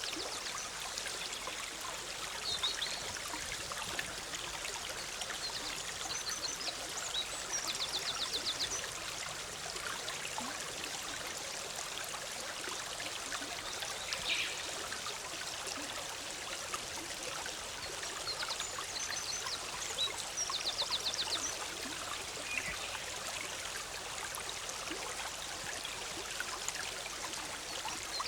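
Forest stream flowing over rocks with a steady bubbling rush. A songbird sings short high phrases over it, two of them ending in a rapid trill, about 8 and 21 seconds in.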